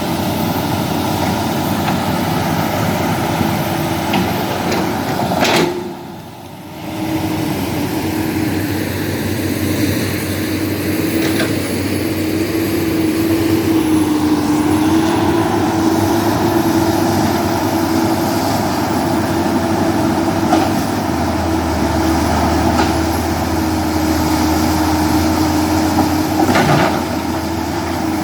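Heavy diesel engine of earthmoving machinery running steadily with a constant drone. The sound briefly drops away about six seconds in.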